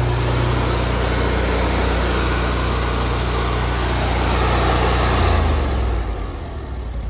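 Honda GX800 fuel-injected twin-cylinder engine on a road cutting saw running at high throttle, then throttled back about five seconds in and settling to a pulsing idle near the end.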